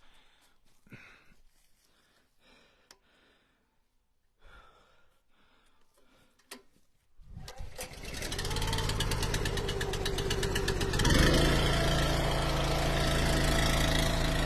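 Eastonmade Ultra wood splitter's gas engine being started: a few faint clicks and knocks, then about seven seconds in the engine catches and runs steadily, stepping up in speed about eleven seconds in.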